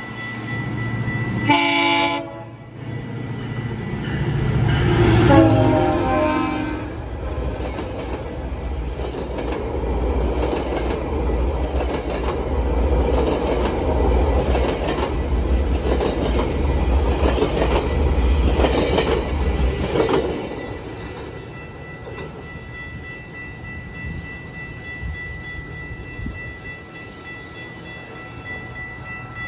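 GO Transit commuter train sounding its horn twice, a short blast and then a longer one, then rumbling across a bridge with its bi-level coaches' wheels clattering over the rails. The train noise drops away about two-thirds of the way through.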